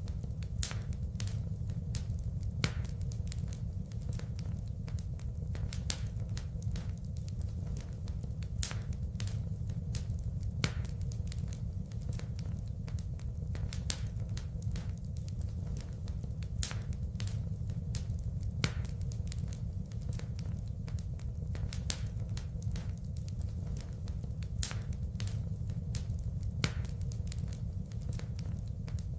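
Wood fire burning in a fireplace: a steady low rumble of flames with continual irregular crackles and sharp pops of burning wood. A few louder pops recur in the same pattern about every eight seconds.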